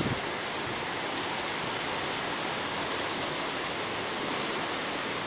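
Heavy rain falling steadily, a dense even hiss of rain pouring down in a stormy downpour.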